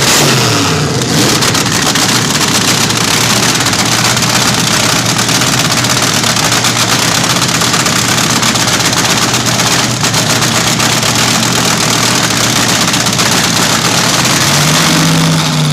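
Altered drag racer's engine running loud on open exhaust with a crackling note. Its pitch falls off a rev just at the start, holds steady, then rises and falls in a short rev near the end.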